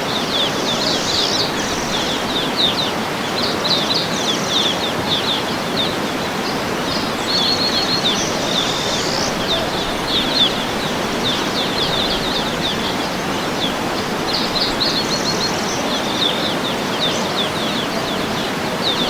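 Small birds chirping in quick, high, short notes, a near-continuous chorus with brief gaps, over a steady background hiss.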